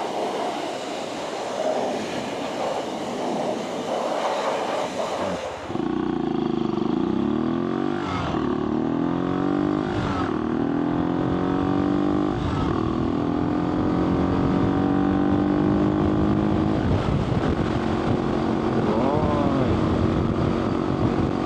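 Wind noise while riding a motorcycle, then about six seconds in the wind drops away and a motorcycle engine comes through clearly, its pitch dipping and climbing several times as it runs over road noise.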